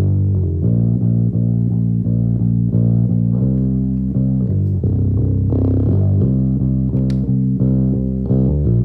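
Soloed bass guitar track from a multitrack recording, playing a run of short repeated notes with a sliding passage a little past halfway. There is a single sharp click near the end.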